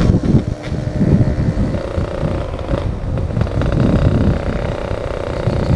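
Yamaha RX-King's single-cylinder two-stroke engine running as the motorcycle is ridden at speed, with wind buffeting the microphone.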